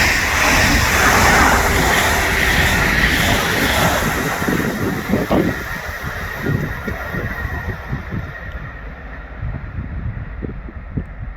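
A passing train rushing by and fading as it draws away, the high hiss dying out near the end. Wind buffets the microphone with low gusty thumps as the train noise dies down.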